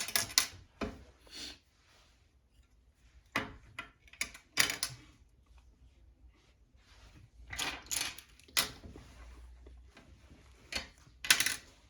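Small plastic construction-kit pieces being handled and fitted together: irregular clicks, clatters and rustles, with a few louder snaps.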